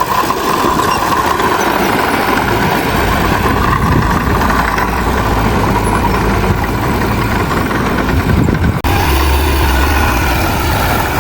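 Diesel engine of a bulldozer running steadily. About nine seconds in the sound breaks off abruptly and resumes with a stronger, steadier low hum.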